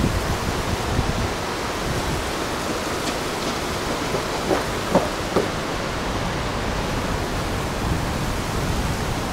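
Heavy rain pouring down in a thunderstorm: a steady rushing hiss, with a few brief taps about five seconds in.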